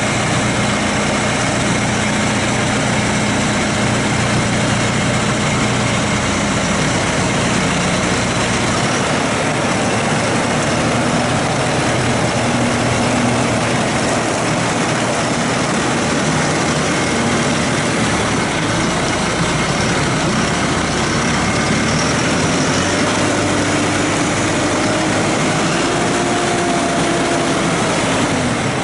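2016 John Deere 5115ML tractor's diesel engine idling steadily.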